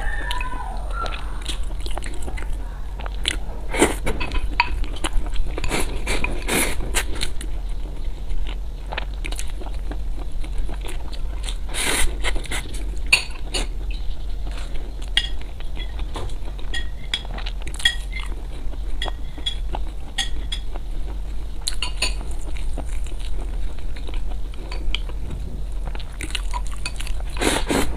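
Close-miked eating of Chinese food: utensils clicking and scraping against a dish between bites, with crunching and chewing. A steady low hum runs underneath.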